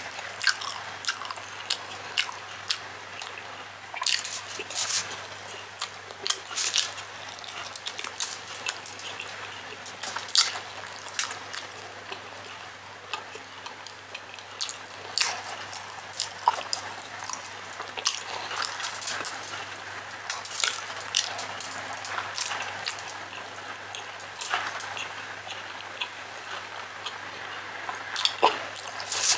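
Close-miked eating sounds: wet chewing and lip-smacking on chicken gizzard and liver adobo with rice eaten by hand, as irregular sharp smacks and clicks, with a faint low hum behind.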